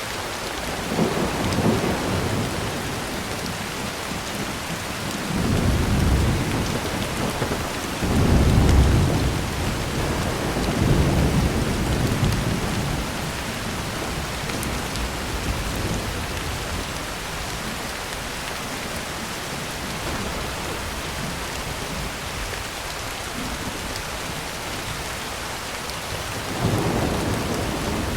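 Heavy rain falling steadily on a tin roof. Low rolls of thunder come one after another through the first twelve seconds, and another comes near the end.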